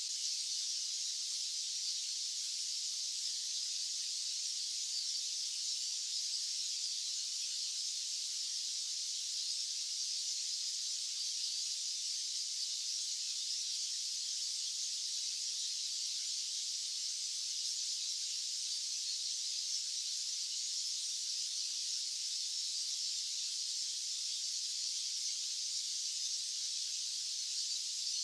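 Steady, high-pitched white-noise hiss with no low end and no change in level.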